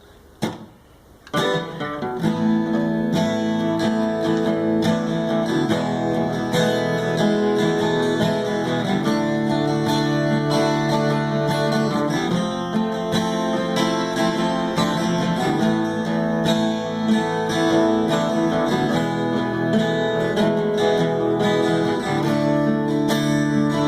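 Acoustic guitar strummed and picked, the instrumental introduction to a song. It starts about a second in, after a couple of sharp clicks, and then plays on steadily.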